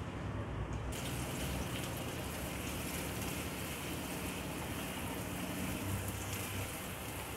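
Ground onion paste sizzling in hot oil in a nonstick pan while a silicone spatula stirs it: a steady frying hiss that comes in sharply about a second in.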